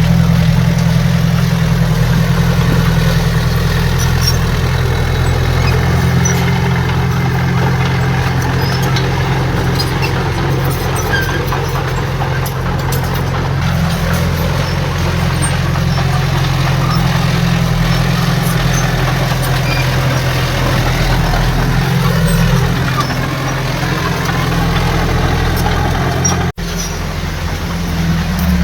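Heavy diesel engine of earthmoving equipment running steadily with a deep, even drone, cutting out for an instant near the end.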